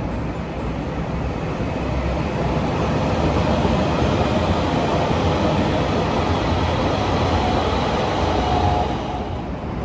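A train passing by, its running noise building over a couple of seconds, holding, and dropping away sharply near the end.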